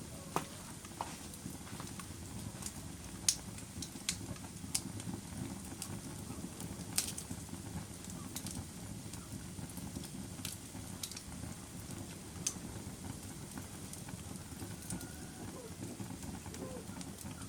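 Wood fire crackling in a fireplace: a steady low rumble of burning with sharp, irregular pops and snaps, the loudest about three seconds in and again about seven seconds in.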